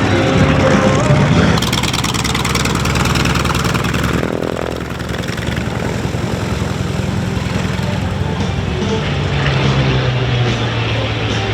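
P-40N Warhawk's Allison V-1710 V-12 engine and propeller running loud and steady during an air-show flying display, dipping briefly about five seconds in.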